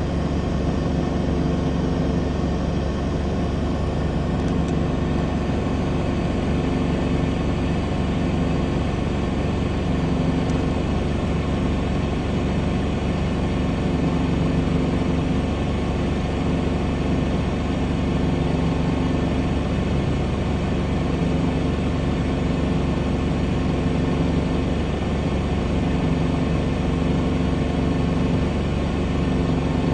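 Car engine idling with a steady hum, heard from inside the cabin.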